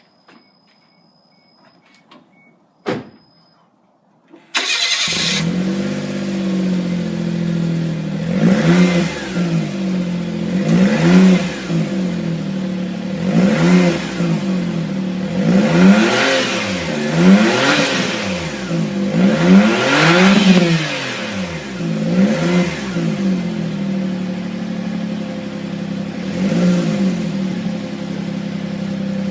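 Suzuki Wagon R MC22S's 660 cc three-cylinder engine breathing through a Kakimoto Kai Hyper GTbox aftermarket muffler: after a faint electronic beep and a click, the engine starts about four and a half seconds in and settles to an idle. It is then blipped about a dozen times, each rev rising and falling quickly, before returning to a steady idle near the end.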